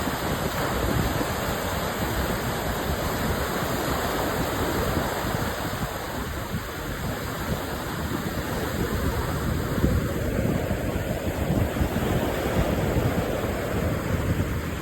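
Strong sea wind buffeting the microphone in irregular gusts, with beach surf washing behind it.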